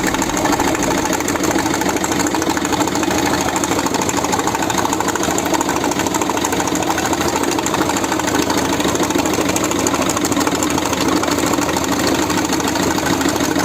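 Peugeot 1.6 HDi diesel engine running at a steady idle with a rapid, even knock. The knock comes from the No. 4 glow plug's probe, which has broken off and fallen into No. 4 cylinder, damaging the piston and a valve.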